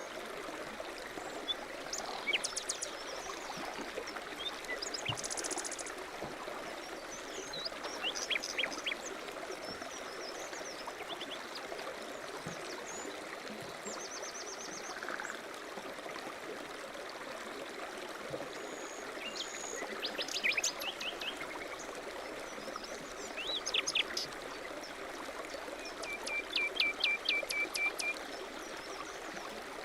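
A mountain stream running steadily, with several songbirds chirping and trilling over it; near the end one bird gives a quick run of about nine short notes.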